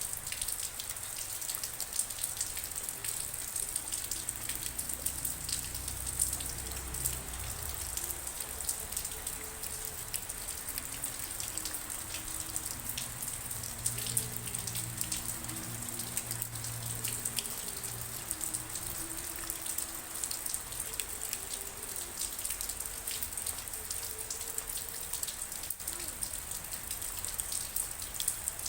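Steady rain, a dense patter of drops over an even hiss. Beneath it, a faint melody of low, stepping flute notes comes and goes.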